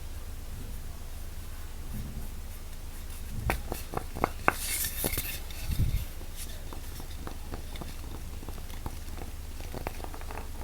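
Handling noises: a cluster of light taps and clicks about halfway through, with a brief rustle among them, over a low steady hum.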